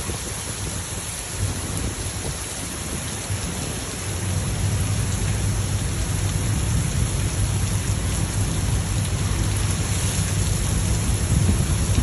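Heavy thunderstorm rain falling steadily, with a low rumble of thunder that builds about four seconds in and rolls on.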